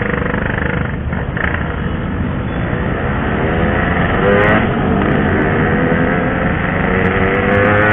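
Yamaha RX-King's 135cc two-stroke single-cylinder engine pulling under throttle while riding: its pitch climbs, drops at a gear change about halfway through, then climbs again. Steady low wind and road noise runs underneath.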